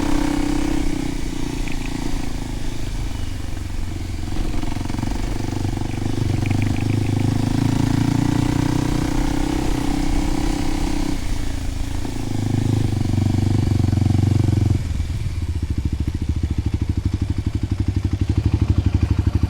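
Kawasaki KLX300's single-cylinder four-stroke engine through a Delkevic 10-inch oval slip-on exhaust, running steadily with its pitch stepping up and down several times. About fifteen seconds in it drops to a low, evenly pulsing beat.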